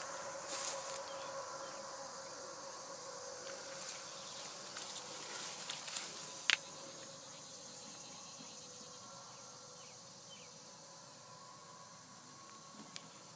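Outdoor ambience with a high insect-like hiss and a steady low hum that slowly fades away, broken by a few faint clicks.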